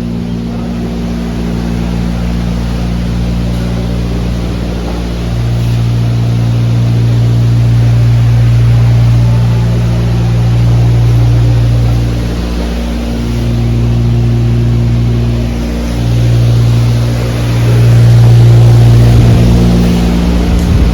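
Loud, steady machinery hum with several constant low tones over a rushing noise, swelling and dipping in level a few times.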